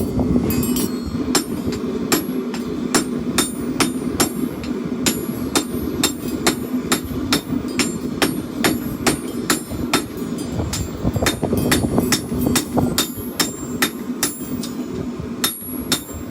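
Forging hammer striking hot steel on an anvil in a steady rhythm, about two to three sharp ringing blows a second, over a steady low hum.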